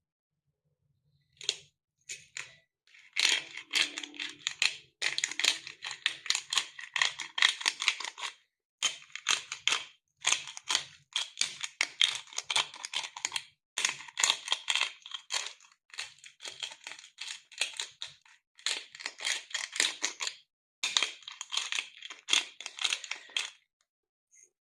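Crinkling, crackling handling noise, like something being crumpled or squeezed, coming in bursts of a few seconds with short pauses between.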